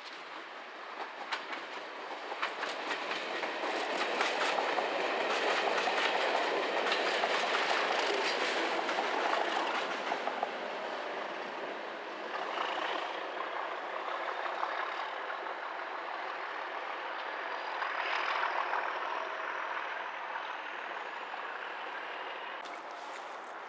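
Network Rail test train hauled by Class 97/3 diesel locomotives passing at speed. The wheels click over rail joints and pointwork, louder for several seconds as it goes by, then fading as it draws away.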